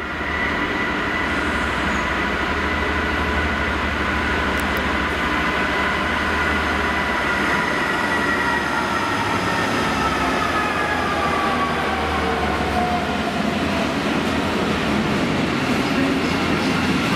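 A Class 66 diesel-electric freight locomotive passes with its two-stroke V12 diesel engine running with a low throb. High whining tones fall slowly in pitch as it goes by. The rumble and clatter of the freight wagons on the rails then take over, growing heavier near the end.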